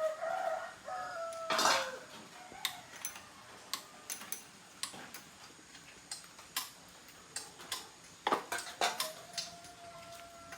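Metal hand tools and small motorbike parts clinking and clicking at irregular intervals as a motorbike is taken apart. A faint, thin steady tone sounds at the start and again near the end.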